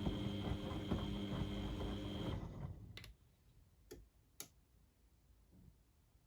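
Beko WMD 46160 washing machine running: motor hum with a high whine and regular knocks as the drum turns, stopping about two and a half seconds in. A few sharp clicks follow in the quiet.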